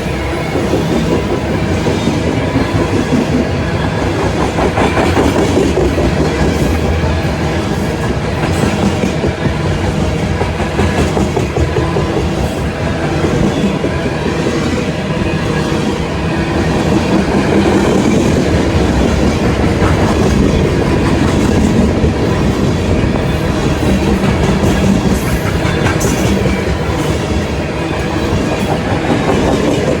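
A train's cars rolling past on the rails, a steady loud clatter of wheels over the track with a little wheel squeal.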